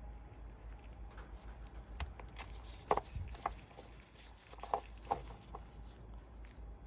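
Scattered light clicks and rustling handling noises over a low background hum, the sharpest knocks about three seconds in and again near five seconds.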